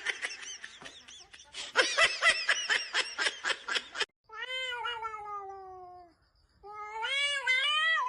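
Cat meowing: a quick run of short cries that stops abruptly, then two long drawn-out meows, the first falling in pitch and the second wavering up and down.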